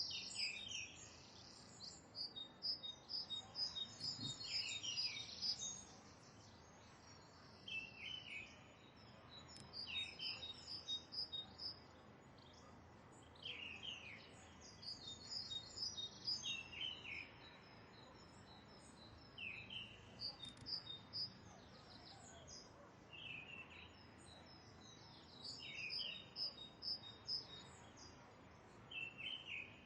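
Birds calling: a short downward-slurred call repeats about every three seconds, mixed with bursts of high chattering, over a faint outdoor background.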